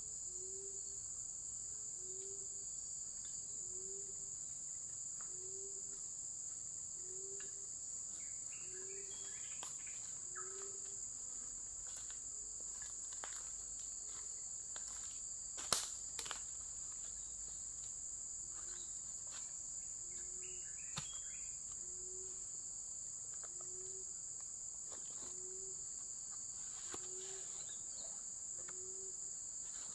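Steady high-pitched insect chorus, with a low call repeating about every second and a half that pauses midway, a couple of brief higher chirps and scattered small clicks. One sharp click about halfway through is the loudest sound.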